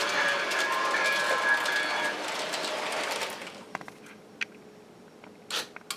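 Recorded train sound played through a small speaker, a steady noisy rumble with a held whine for about the first two seconds, fading out about three and a half seconds in. A few faint clicks follow.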